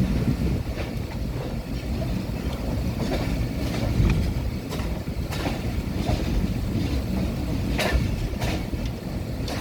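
Train running along the track: a steady low rumble with irregular sharp clicks and clacks from the wheels and rail joints.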